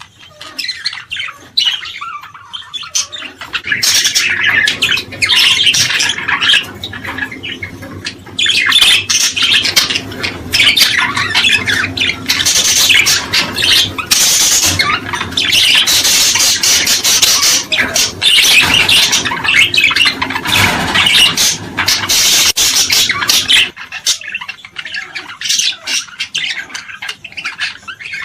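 Many small birds chirping and chattering together in a dense, busy chorus. It starts sparse, fills in after about four seconds, and thins out again a few seconds before the end.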